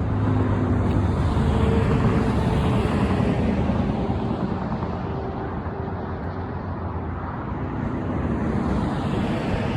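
A heavy truck driving past, a steady rush of engine and tyre noise that is loudest in the first few seconds, eases off and builds again near the end.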